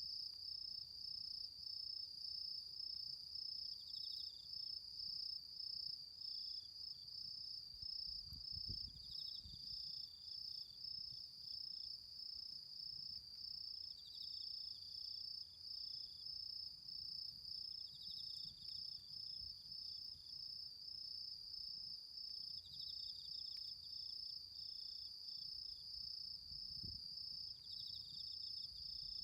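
Autumn insects calling. One keeps up a steady, rapidly pulsing high trill, while another gives a short, slightly lower call every four or five seconds. A faint low rumble comes twice, about a third of the way in and near the end.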